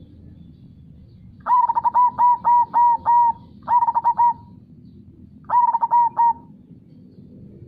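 Zebra dove (perkutut) cooing: three phrases of quick repeated notes, a long one of about seven notes followed by two short ones. Under it runs a low, steady rush of flowing river water.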